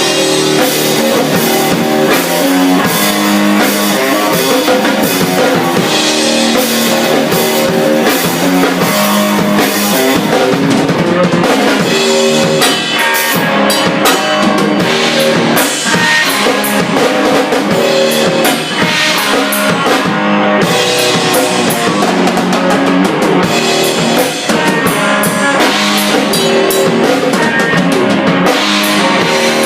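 Drum kit and guitar playing an improvised rock jam, with steady drum hits under guitar chords and riffs.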